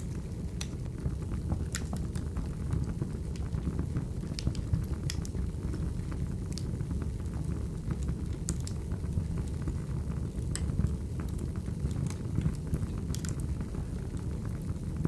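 Wood fire crackling: a steady low rumble of burning logs with sharp, irregular pops and snaps every second or so.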